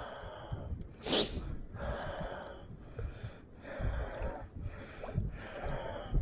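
A man breathing hard, about one breath a second, close to the microphone, with wind rumbling on the mic underneath. A single sharp rush of noise comes about a second in.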